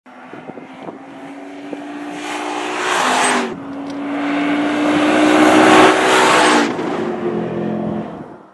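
Lexus IS-F's 5.0-litre V8 accelerating hard past on track, its exhaust note climbing in pitch. It drops briefly at a quick upshift about three and a half seconds in, then climbs again to its loudest before falling back near seven seconds.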